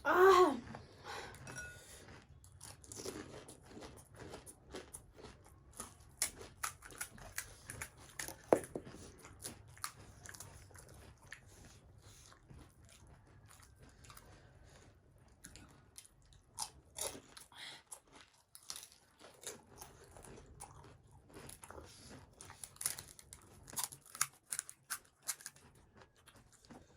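Close chewing and crunching of pani puri, the crisp hollow fried shells cracking between the teeth amid wet chewing, in irregular runs of crunches. A brief vocal sound comes right at the start.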